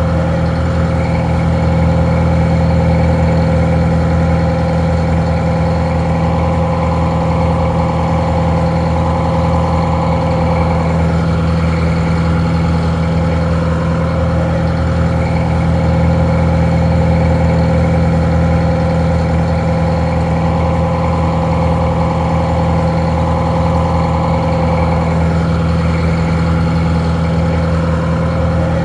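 Detroit Diesel 4-71 two-stroke diesel engine idling steadily, its sound a little muffled.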